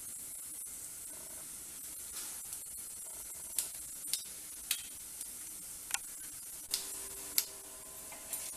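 Split black urad dal and mustard seeds frying in hot oil in a clay kadai: a steady sizzle with several sharp pops in the second half.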